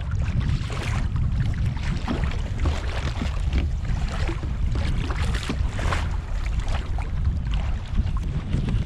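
Strong wind buffeting the microphone in a steady low rumble, with small waves splashing irregularly against a kayak's hull.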